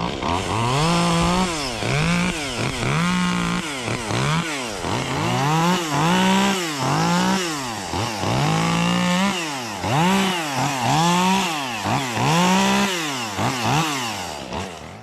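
Echo 2511T top-handle two-stroke chainsaw revved up and down repeatedly, about once a second, then dropping away near the end.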